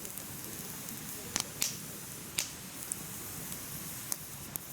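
Firewood burning in a mesh fire stand: a steady low rush of flame with sharp crackles and pops scattered through, a handful in a few seconds.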